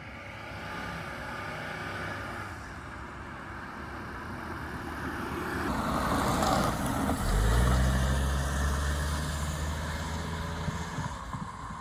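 1982 Mercedes-Benz 300SD's turbodiesel engine and tyre noise as the car drives along, swelling to its loudest about seven seconds in with a low engine drone, then easing off.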